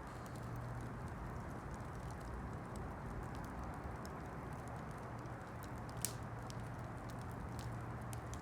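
Campfire crackling, with scattered small pops over a steady low hiss and one sharper pop about six seconds in.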